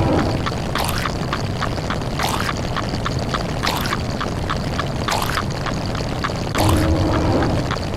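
A stack of looped cartoon and meme sound effects, one for each digit of a fast-running counter. Rapid even clicks come about seven times a second, a noisy splash-like burst about every second and a half, and a deeper tone with a thud once near the end.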